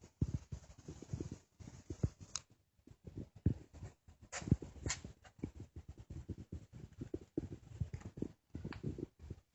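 Irregular close rustling and soft thumps, with a few sharper clicks about two and a half and five seconds in.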